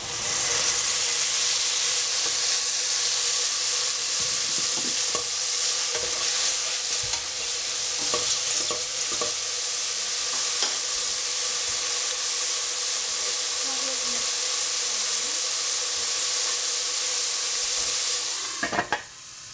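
Mushrooms frying in a pan with a steady sizzle, and occasional clicks of a utensil stirring them. The sizzle cuts off suddenly near the end.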